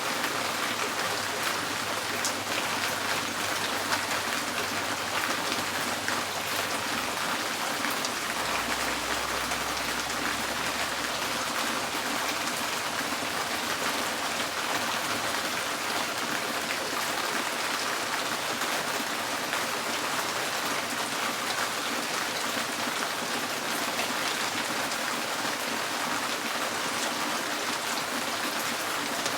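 Steady rain drumming on a porch's tin roof, a dense, even patter of countless drops.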